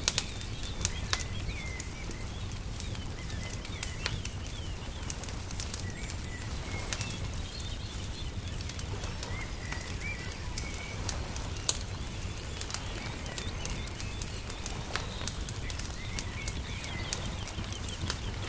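Wood fire crackling with frequent sharp pops, over a steady low rumble, while small birds chirp in short repeated calls.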